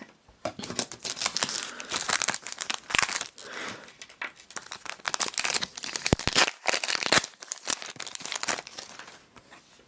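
Foil booster-pack wrapper crinkling and being torn open, with irregular crackling rustles as cards are pulled out and handled.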